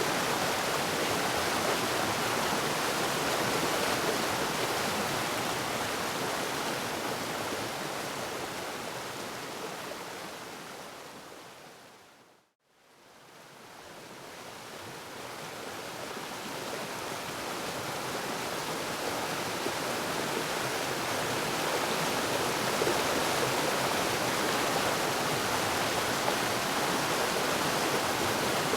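Waterfall rushing in a steady roar of falling water, which fades smoothly out to silence about twelve seconds in and then fades back up to full level.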